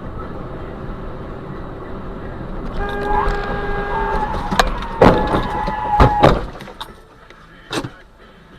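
Car collision heard from a dashcam inside the vehicle: engine and road noise, a car horn held for about three seconds, then loud crash impacts about five and six seconds in, with one more knock near the end.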